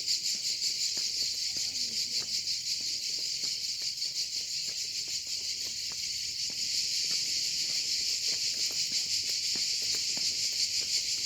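A dense chorus of insects shrilling steadily and loudly, a fast buzzing pulse, with faint footsteps ticking underneath.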